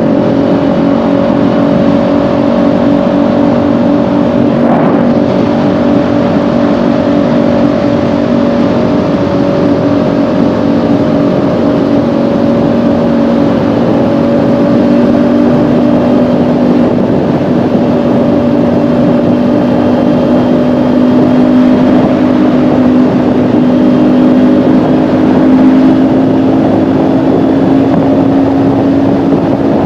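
Kawasaki Ninja 400's parallel-twin engine running at a steady cruise under way, its pitch creeping slightly higher and louder in the last third.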